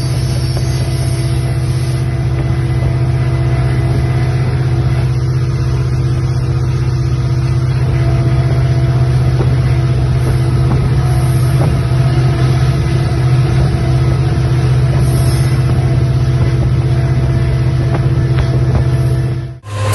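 A large engine running steadily at a constant speed: a deep, even drone with a few steady tones above it. It starts abruptly and cuts off abruptly near the end.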